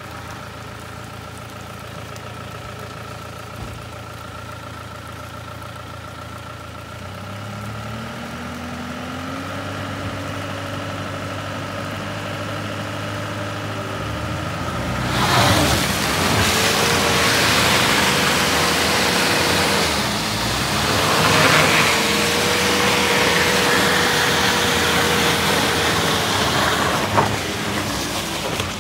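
Mahindra Bolero's diesel engine running steadily, then climbing in pitch and revving under load as the mud-stuck vehicle is pulled up a muddy track on a tow rope. About halfway through a loud rushing noise joins it, easing briefly and then surging again.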